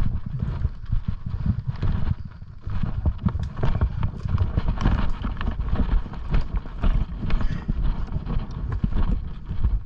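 Footsteps moving quickly through dry leaf litter and brush, with crunching and crackling and low thuds from the movement.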